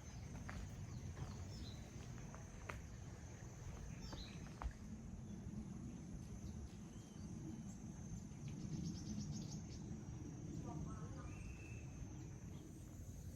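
Outdoor ambience: insects keep up a steady high-pitched drone over a low rumble, with scattered clicks, a quick run of ticks, and a few short bird-like chirps near the end.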